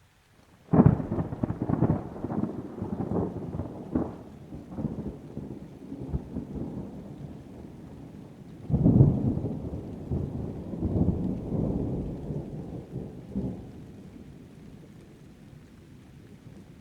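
Thunder: a sudden loud clap about a second in that rolls and rumbles for several seconds, then a second peal near the middle that rumbles on and fades away, with rain underneath.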